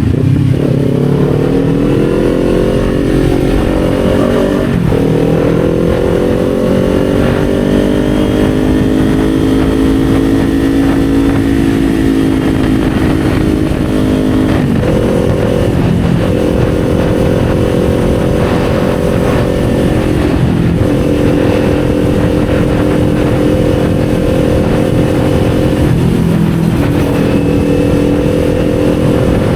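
Kawasaki Z400's parallel-twin engine pulling under way, its pitch rising at first and then holding fairly even. It breaks off briefly about five times, as at gear changes or throttle lifts.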